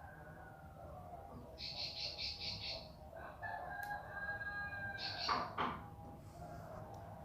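Bar-winged prinia (ciblek pari) singing a quick run of about six high chipping notes, under lower drawn-out calls that swell to the loudest sound about five seconds in.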